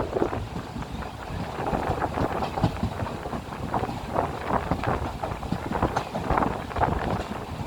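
A train running at speed, heard from on board: a steady, noisy rumble with many quick, irregular rattles of the wheels on the track.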